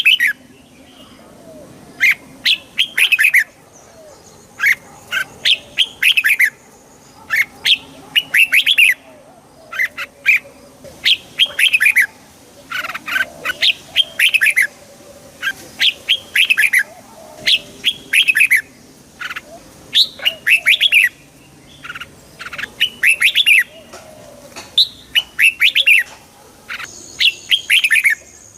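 Red-whiskered bulbul singing: short, bright, warbling phrases repeated every second or two, each a quick run of curving, falling notes.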